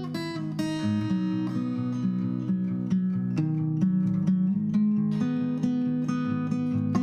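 Acoustic guitar playing a tune of plucked notes and strummed chords.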